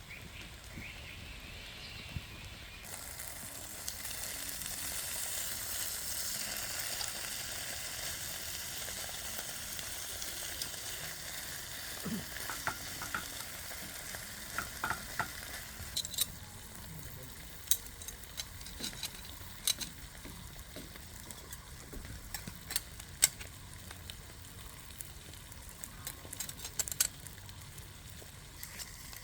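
Food frying and sizzling in a pan, the sizzle growing louder a few seconds in. From about halfway on there are scattered sharp clicks of a utensil stirring against the pan.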